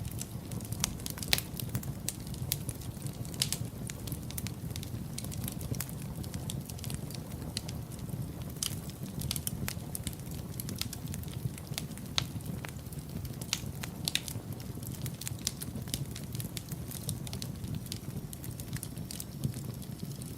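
Wood fire in a fireplace burning and crackling: a steady low rumble of the flames with irregular sharp pops and snaps scattered throughout.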